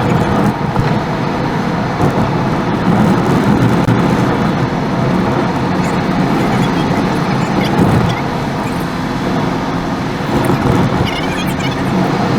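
Steady road and engine noise of a car driving, with a few brief high-pitched chirps near the end.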